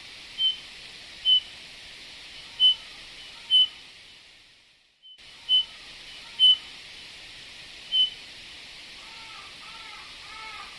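Recorded Eurasian bullfinch calls: short, clear whistles repeated every second or so, with softer arched calls lower in pitch. The sound fades out about four seconds in and returns a second later.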